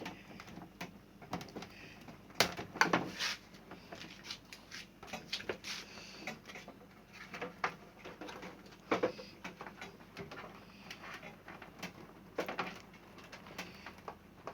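Scattered clicks and knocks of tools on the plastic housing of a small air cooler being unscrewed and taken apart, the loudest knocks about two and a half to three seconds in.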